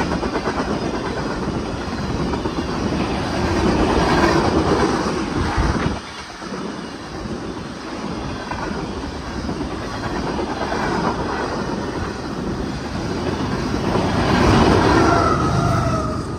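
Steel wheels of freight tank cars rolling past on the rails with a steady clickety-clack over the joints, swelling and easing as the cars go by, and a thin wheel squeal near the end. The rear diesel locomotive, a distributed-power unit, comes by in the last moments.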